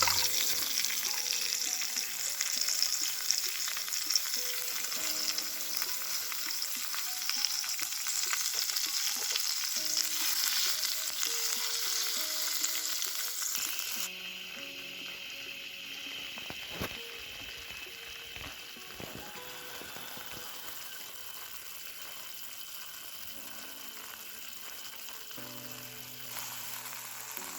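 Fish mince sizzling as it fries in hot oil in a pot on a portable gas stove, a steady hissing sizzle that turns abruptly quieter about halfway through.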